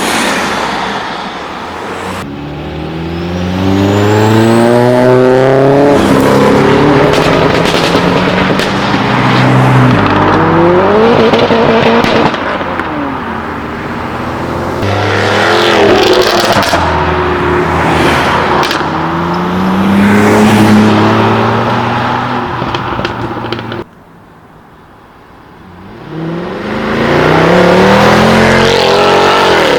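Tuned cars accelerating hard one after another, with loud exhaust and the engine pitch climbing repeatedly as they rev up through the gears. About three quarters of the way through the sound drops away suddenly, then another car accelerates.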